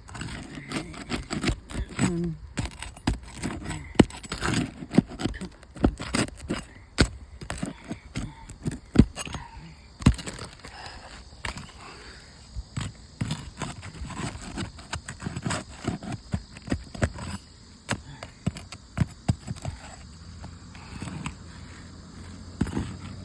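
Roof snake working under asphalt shingles: irregular sharp clicks, crackling and scraping as the tool and shingle tabs are pried up.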